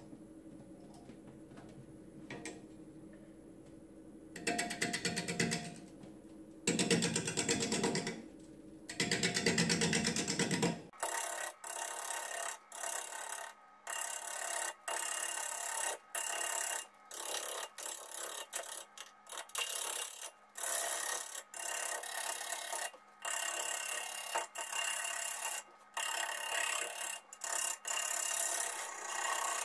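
Bowl gouge cutting into an English walnut blank spinning on a wood lathe, in three short passes with a rapid even chatter. From about eleven seconds in the cutting sound turns thinner and comes in quick repeated stretches with short breaks.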